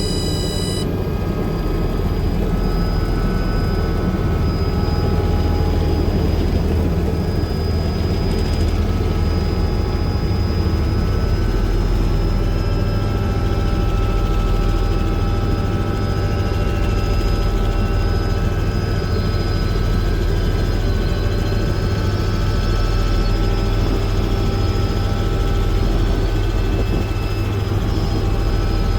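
Helicopter running steadily: a loud, even, deep drone with a thin, steady high whine above it.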